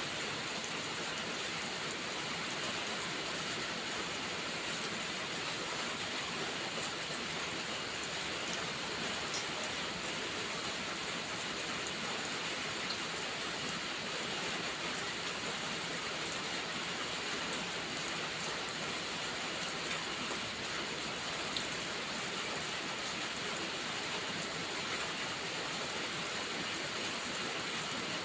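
Steady rain falling, an even hiss that never changes in level, with a few faint scattered ticks of drops.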